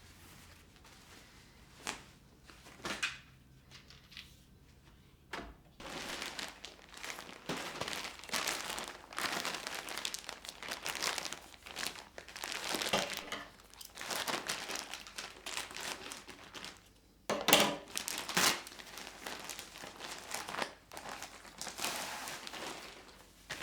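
Crinkling and rustling as something is handled, possibly packaging or material being unwrapped. The first few seconds are mostly quiet, with a few light clicks. Steady crinkling begins about six seconds in and continues with short pauses, with two louder crinkles about three quarters of the way through.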